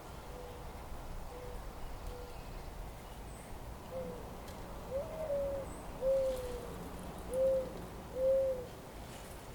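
A bird giving short, low calls: three faint ones at first, then five louder ones about a second apart in the second half.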